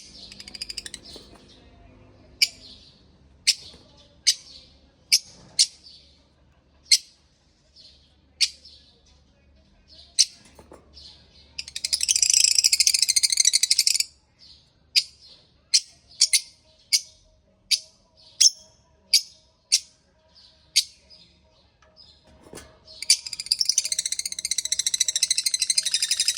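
Pet parrot giving sharp, high chirps about once a second, broken twice by two or three seconds of rapid, dense chattering.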